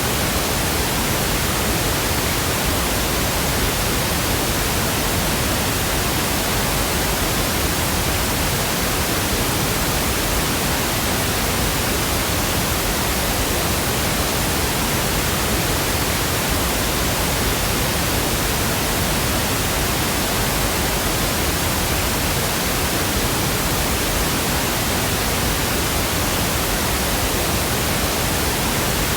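Steady pink noise: an even, unchanging hiss spread across all pitches, with no rhythm or events in it.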